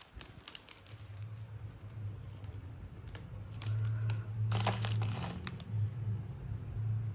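Bouquet wrapping being handled and crinkled, with a denser burst of crinkling and rustling about four and a half seconds in, over a low steady hum.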